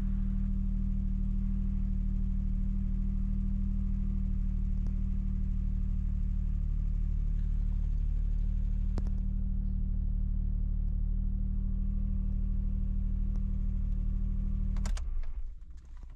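Suzuki Alto Works CN21S three-cylinder engine idling steadily after its semi-overhaul, then switched off about a second before the end.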